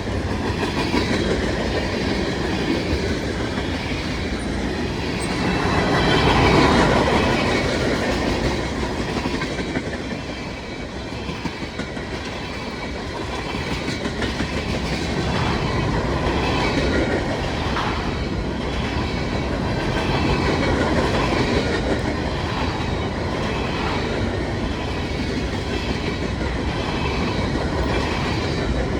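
Freight train cars rolling past, steel wheels running over the rails with a steady noise that swells briefly about six seconds in.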